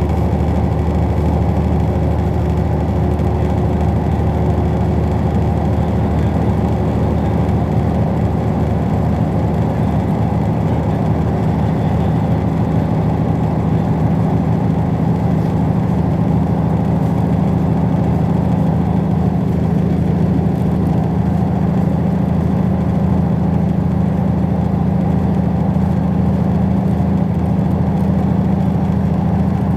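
Steady low running rumble of a State Railway of Thailand express passenger train, heard from aboard while it is under way. A low hum within it grows stronger about halfway through.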